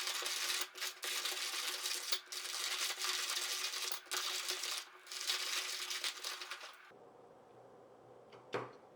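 Daurunfy hand-crank burr coffee grinder crushing whole coffee beans at a medium setting: a steady, gritty crunching with a few brief breaks as the handle turns, stopping about seven seconds in. A couple of light knocks follow near the end.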